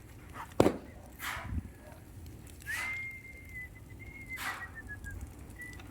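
Bonfire of cut grass burning: a sharp pop about half a second in, a few short hissing crackles, and a thin, steady, high whistle held for about two and a half seconds in the middle, dropping slightly as it fades.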